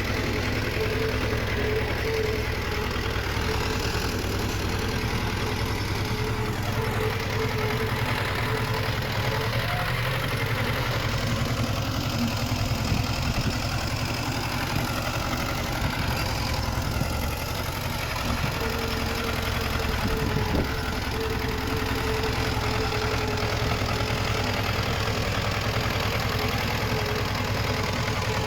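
Small crawler bulldozer's diesel engine running steadily, with a faint whine that fades out for a stretch mid-way and returns.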